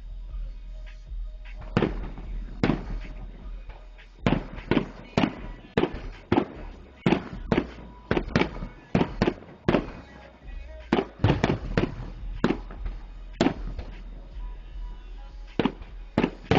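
Fireworks display: a rapid barrage of shells going off, sharp bangs coming a fraction of a second to about a second apart. The run is densest in the middle, with a lull before a couple more bangs near the end.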